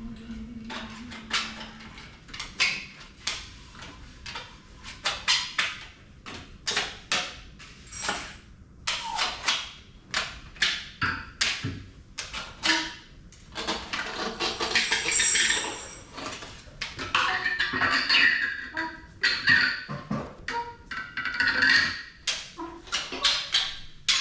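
Group free improvisation on hand percussion and struck objects: a steady stream of irregular taps, knocks and clicks, thickening into denser rattling stretches in the second half.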